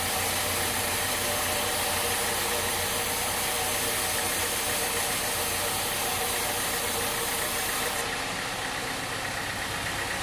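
An engine running steadily under heavy machine noise. About eight seconds in, the sound changes abruptly and the highest hiss drops away.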